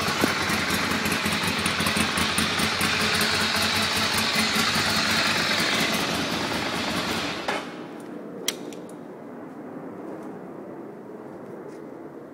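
Ducati Monster's V-twin engine running steadily through its exhaust, then cut off about two-thirds of the way through. A single sharp click follows about a second later.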